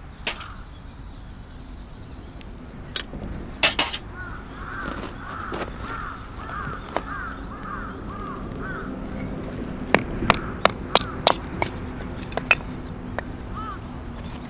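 A crow cawing in a run of about ten short calls, with sharp knocks and clacks scattered around it and a quick series of them near the end.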